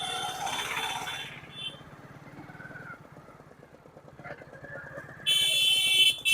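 Small motorcycle engine running steadily during a test ride, with no brake squeal heard. About five seconds in, a loud electric horn beeps twice in quick succession.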